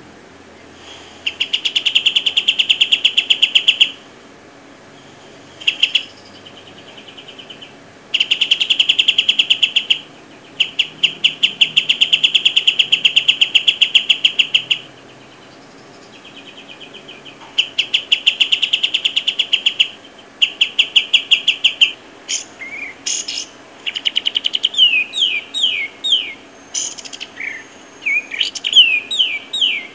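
A bird singing: a series of rapid, high trills, each lasting two to four seconds with short pauses between, followed in the last third by quick downward-sliding whistled notes.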